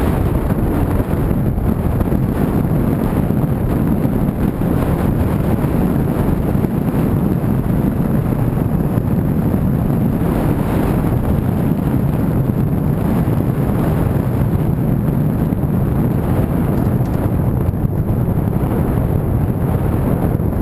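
Car driving steadily: an even rumble of road and engine noise, with wind buffeting the microphone.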